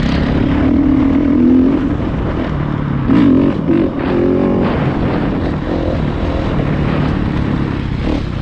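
Dirt bike engine running under way, revving up and dropping back a few times as the rider rides and shifts, with wind noise over the microphone.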